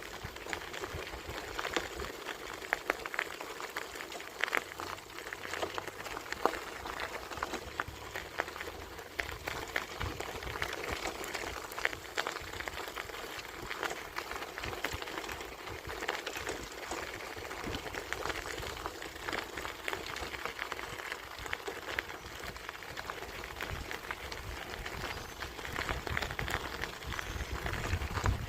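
Bicycle rolling along a path: steady crackling tyre noise with many small clicks and rattles throughout, and some low rumble.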